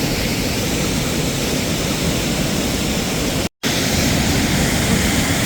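Steady rushing of water pouring over a small dam on a trout stream, cut off briefly for a split second about three and a half seconds in.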